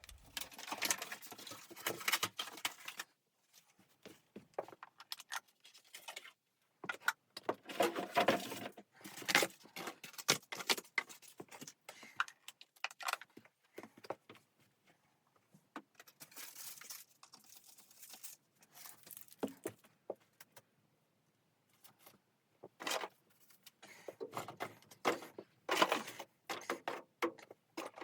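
Irregular rustling, clicking and clinking of things being handled, in bursts with short pauses.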